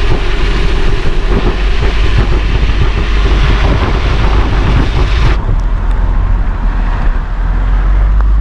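Wind and road noise in a moving car during a tropical storm: a loud rushing hiss over a steady low rumble. The hiss drops away abruptly about five seconds in, leaving mostly the low rumble.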